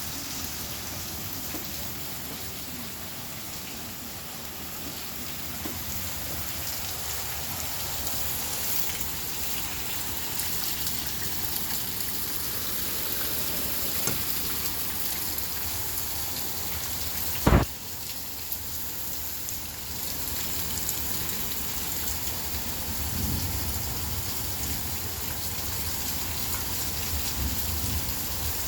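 Steady rain hissing during a thunderstorm. There is one sharp loud knock a little past halfway, and low rumbling near the end.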